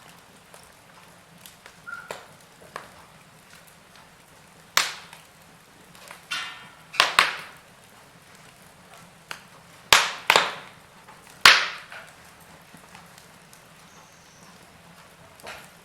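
Logs burning in a fireplace, crackling over a low steady hiss, with a handful of loud sharp pops at irregular moments, the strongest around the middle.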